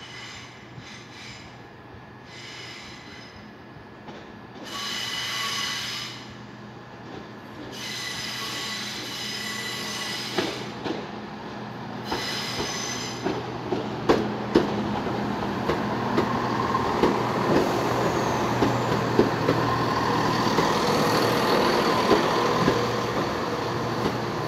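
Class 171 Turbostar diesel multiple unit arriving: several short high-pitched wheel squeals in the first half, then the low diesel engine note and a rumble with regular clicks of the wheels over rail joints, growing louder as the train draws alongside.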